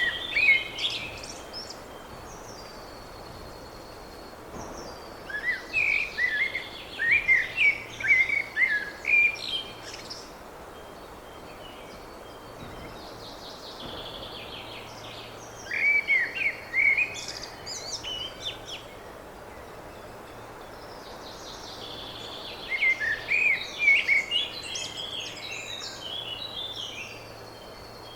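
A songbird singing in phrases of quick, chirpy notes a few seconds long, with pauses of several seconds between them, over a steady background hiss.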